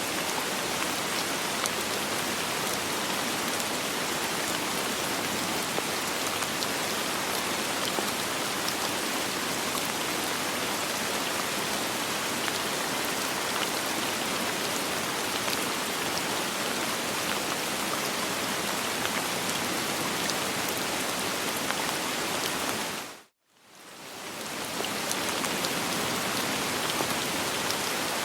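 Steady soft rain with no thunder, an even hiss of many drops. About five seconds before the end it dips briefly to silence, then fades back in.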